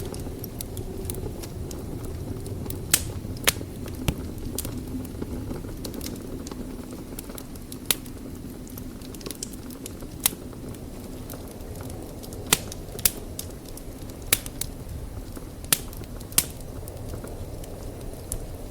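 Wood fire burning in a fireplace: a steady low rumble of flames with sharp crackling pops at irregular intervals, about a dozen, mostly from a few seconds in until near the end.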